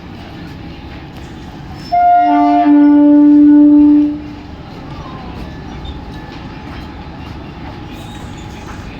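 Mumbai suburban electric local train sounding its horn once, a loud multi-tone blast of about two seconds, over the steady rumble of a train coming into the platform.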